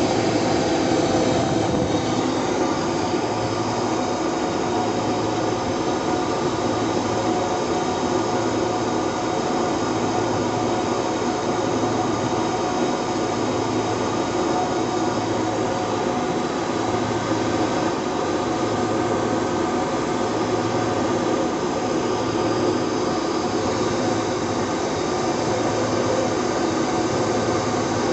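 Turbocharged Detroit Diesel 12V-71, a two-stroke V12 diesel, running steadily, with a slow regular pulse in its low rumble.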